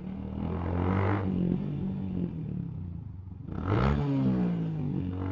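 Motorcycle engine running while riding, with a steady drone. A little before four seconds in the revs rise briefly and then fall.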